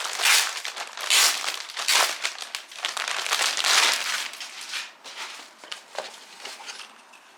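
Packaging crinkling and rustling in several handled bursts as a newly delivered hat is unwrapped, dying down to small rustles after about five seconds.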